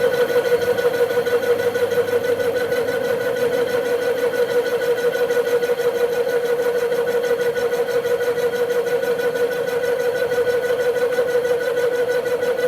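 A workshop machine's motor running with a steady, high, whining hum.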